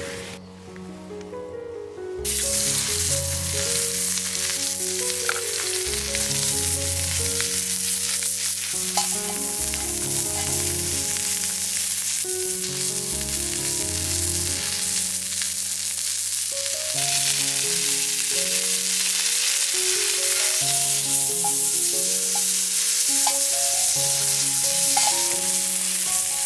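Food frying in a pan, a steady sizzle that starts suddenly about two seconds in, under background music.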